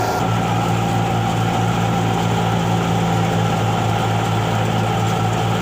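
Tractor-driven wheat thresher running, with the tractor engine holding a loud, steady drone under the thresher's whir.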